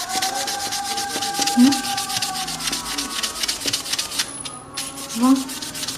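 Rapid, even strokes of hand sanding on a part of an old rusty table fan being restored, with a brief pause about four seconds in.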